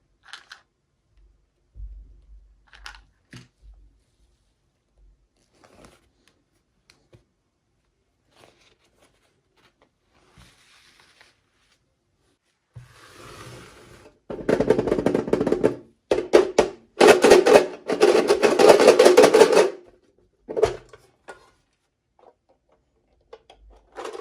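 Scattered faint clicks and taps of handling. About halfway through comes a loud, dense rapid rattling that lasts about six seconds, with one more short burst a second later.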